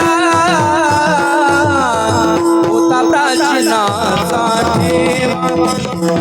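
Kirtan music: a voice singing an ornamented, wavering melody over a steady held drone note, with hand-drum strokes keeping time.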